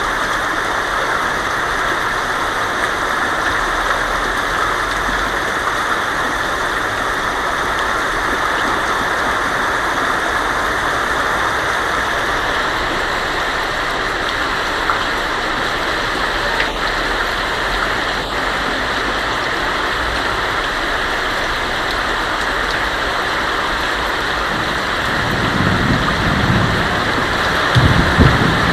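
Heavy rain falling steadily on a tin roof, a constant hissing patter. Near the end a low rumble of thunder begins to build under it.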